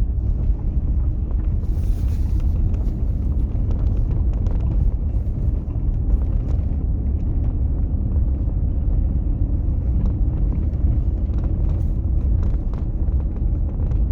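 Steady low rumble of a car driving along a road, with scattered light clicks.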